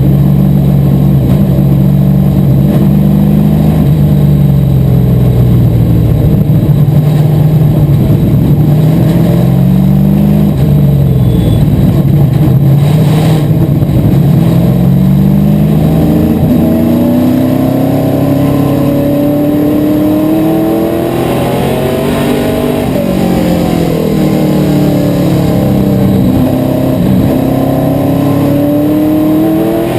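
Asphalt modified race car engine running at racing speed. Its pitch repeatedly drops and then climbs again over several seconds, the pattern of lifting off into the corners and accelerating back onto the straights.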